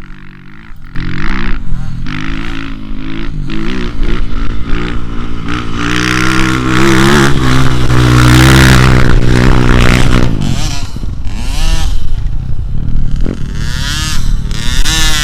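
A dirt bike at full speed, about 60 mph, approaching and passing close by: its engine note grows louder and higher through the first eight seconds or so, is loudest around eight to ten seconds in, then fades and drops in pitch as it goes past and away.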